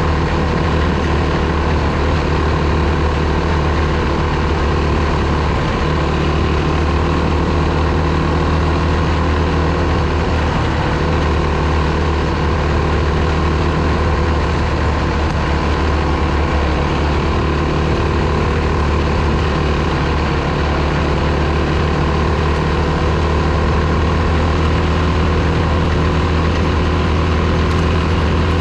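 A four-stroke single-cylinder dirt bike engine running steadily at an even pitch, with no sharp revs or stops.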